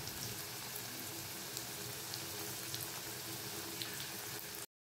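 Potato chunks shallow-frying in oil and butter in a kadai: a steady sizzle with scattered small crackles, which cuts off abruptly near the end.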